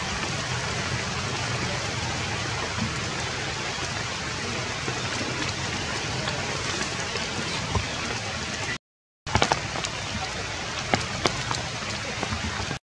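Steady rain hissing on forest foliage. After a brief dropout about nine seconds in, scattered sharp ticks of drops or twigs sound over it.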